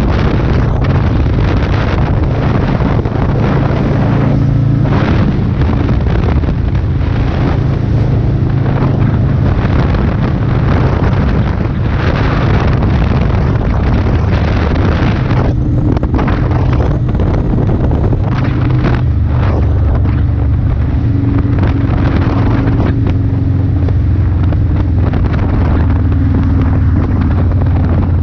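Motorcycle engine running under way, with a steady note that drops lower about two-thirds of the way through, and wind buffeting the microphone throughout.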